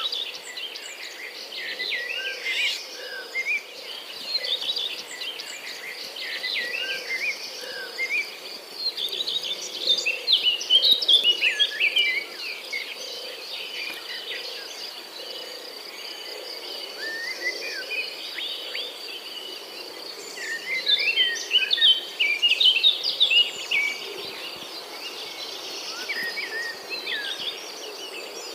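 Outdoor ambience of birds singing, many quick chirps and warbles that come in busier bursts, over a steady high-pitched insect drone.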